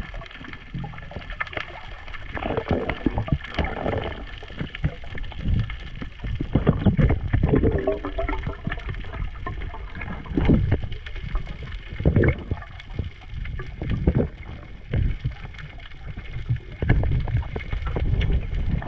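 Water sloshing and gurgling close against the microphone, in irregular muffled surges.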